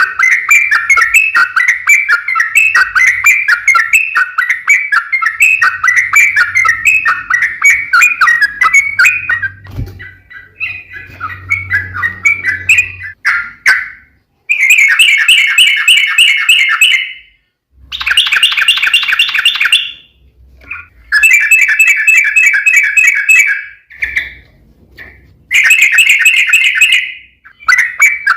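Yellow-vented bulbul (trucukan) singing loudly. It starts with a continuous run of quick chattering phrases, then gives four fast rolling trills of two to three seconds each, with short pauses between them.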